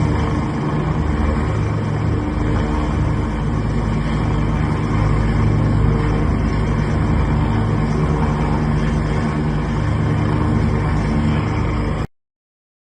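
Helicopter rotor and engine noise, a steady low throbbing drone from a helicopter flying close overhead, cut off suddenly near the end.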